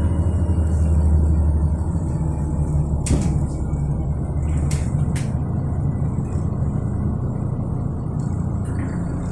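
City bus engine running with a steady low drone, heard from inside the passenger cabin. A few sharp rattles or knocks come about three and five seconds in.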